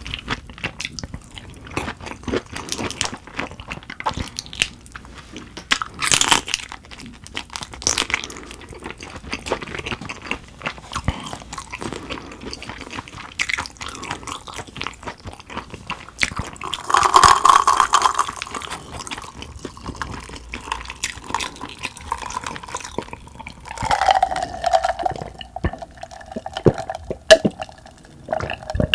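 Close-up wet chewing of raw dohwa shrimp: soft, dense mouth clicks and smacks, with swallowing and drinking sounds near the end.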